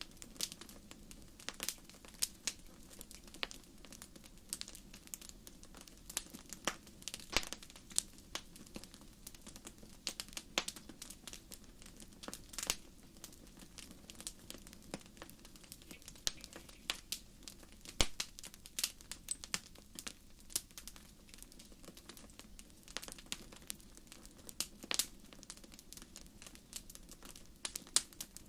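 Wood fire crackling in a fireplace: irregular sharp pops and snaps, one louder pop about two-thirds of the way through, over a steady low rush of the burning fire.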